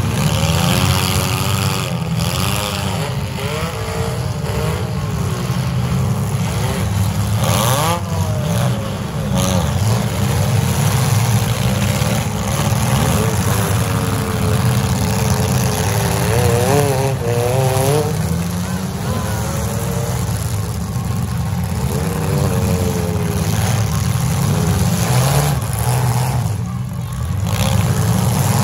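Several compact demolition-derby cars' engines revving hard at once, their pitch climbing and falling as they push and ram, over a heavy steady rumble. A few sharp bangs of cars smashing together cut through, around two seconds in and near eight and nine seconds.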